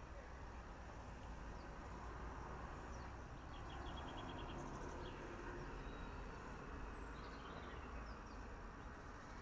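Garden birds chirping faintly, including a quick run of about six short notes a few seconds in, over a steady low background noise.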